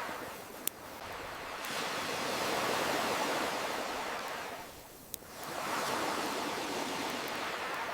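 Ocean waves washing in and out, swelling to a peak about three seconds in, easing off and building again, with a couple of sharp pops from a crackling campfire.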